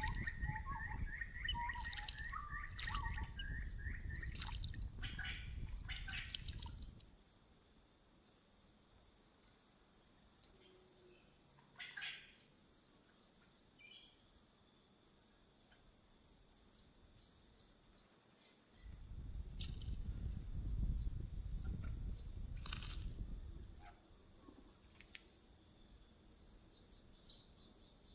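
Outdoor birdsong: a high chirp repeated rapidly and steadily, with other birds calling over it at first. A low rumble comes and goes, strongest at the start and again about two-thirds of the way through.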